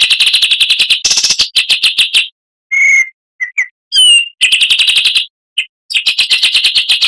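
Oriental magpie-robin (kacer) singing loudly. Fast runs of rapid chattering notes alternate with a few short clear whistles, one of them falling in pitch about four seconds in.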